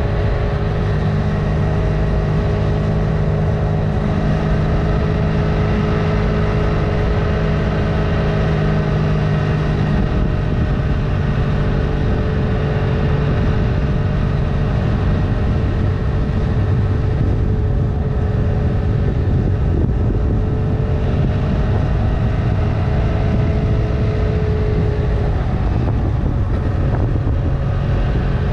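Honda CMX 500's parallel-twin engine running under way at a fairly steady pace, its note drifting gently up and down over a dense low rumble.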